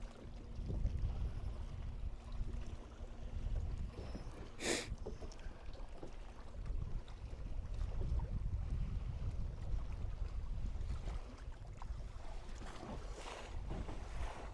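Wind rumbling on the microphone aboard a fishing boat, with a faint steady hum that stops about four and a half seconds in. A sharp knock comes just after the hum stops, and a softer one near the end.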